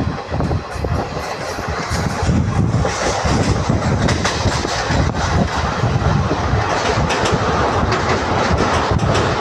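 Indian Railways train running at speed, heard from a coach window: a steady rumble and rush of air with the clickety-clack of wheels over rail joints.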